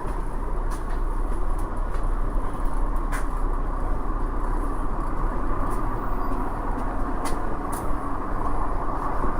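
A MAZ-107.466 three-axle low-floor city bus under way, heard from inside: steady running noise of its Mercedes-Benz OM 906LA inline-six turbodiesel mixed with road rumble. Several short clicks and rattles come through now and then.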